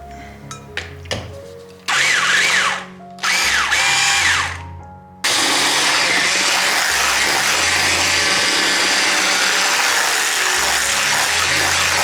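A small electric motor appliance run in two short bursts, its pitch sliding up and down, then run steadily for about seven seconds before cutting off, over soft background music.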